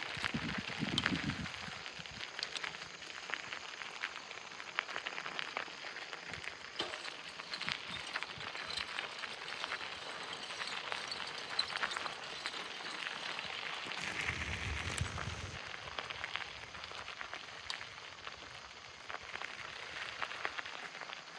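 Outdoor storm ambience: a light breeze with a fine, dense crackling patter. Two brief low rumbles come about a second in and about fourteen seconds in.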